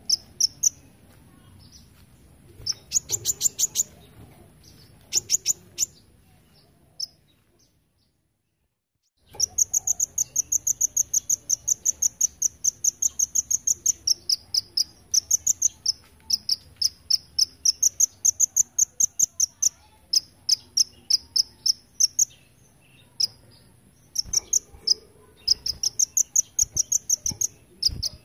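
Kolibri ninja (a sunbird) singing fast, high-pitched trills of rapidly repeated notes, the insect-like 'golden grasshopper' style prized by song-contest judges. The song comes in short phrases at first, cuts out completely for nearly two seconds about eight seconds in, then runs on in long unbroken trills, over a faint steady high whine.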